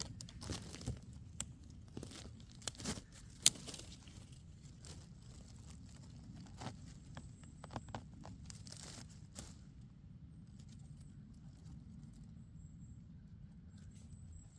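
Rustling and crackling of dry leaves and twigs, with scattered sharp snaps and one loud crack about three and a half seconds in, over a steady low rumble.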